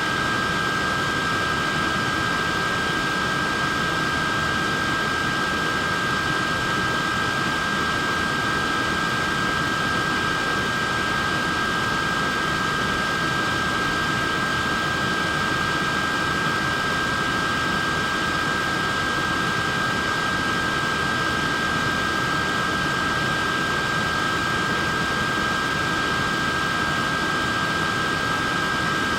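Portable neck fan running steadily: an even rush of air with a steady high whine from its small motor.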